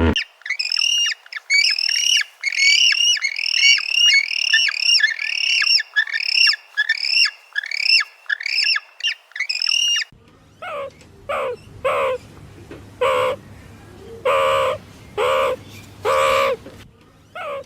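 Birds calling. First comes a fast series of high, repeated calls, about two a second. About ten seconds in, it changes abruptly to lower, shorter calls spaced about a second apart.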